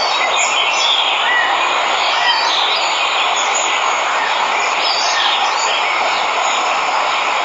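Waterfall rushing steadily, with birds chirping over it.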